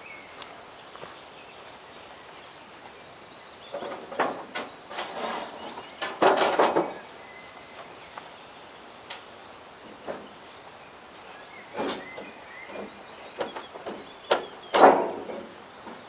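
Plastic rain gutter parts being handled and pressed together: scattered clicks, knocks and scraping rustles, with the loudest bursts about six seconds in and near the end. Faint bird chirps early on.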